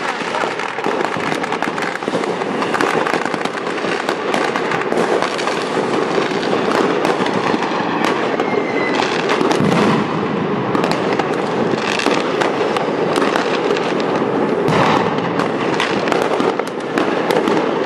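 Many fireworks and firecrackers going off at once: a continuous dense crackle of overlapping bangs and pops, with no let-up.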